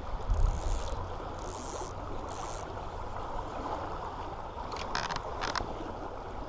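River water running steadily, with a low thump about half a second in, a few short scraping rustles in the first few seconds and a couple of sharp clicks about five seconds in.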